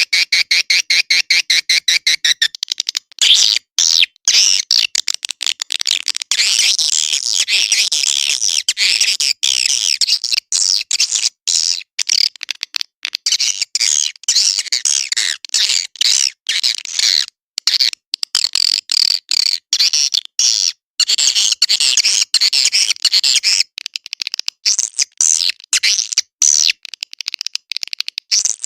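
Swiftlet call recording, the kind of lure track played to draw swiftlets into a nesting house: dense, high twittering chatter packed with rapid clicks and broken by many short gaps. For the first couple of seconds it is a fast, even run of clicks, and after that the chatter is thicker.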